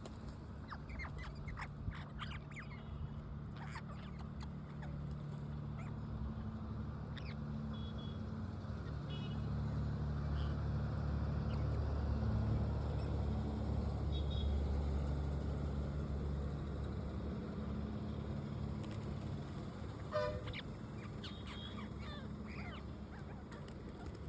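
Pet parrots making short chirps and clicks while eating, over a low steady engine-like hum that swells in the middle and eases off again.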